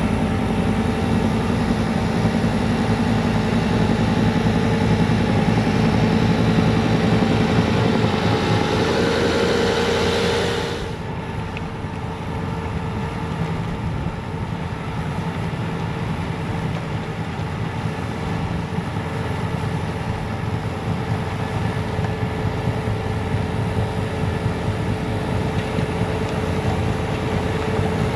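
Bobcat T66 track loader's diesel engine running with its snowblower attachment working. About ten seconds in the loud upper hiss cuts off sharply, and the engine runs on more quietly and steadily.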